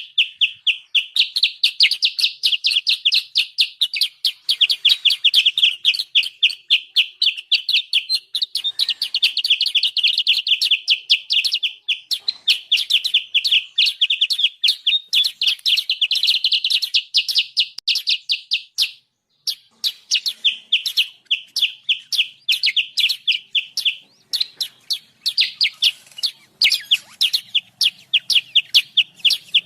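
Kutilang sutra, a bulbul-type songbird, giving an agitated, noisy call ("ribut"). It is a fast, unbroken series of high chirps, several a second, with one short pause about two-thirds of the way through. This is the lure call trappers play to draw the birds in close.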